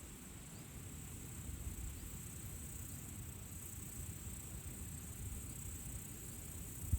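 Steady high-pitched insect chorus, like crickets, over a low uneven rumble of wind on the microphone, with a short thump at the very end.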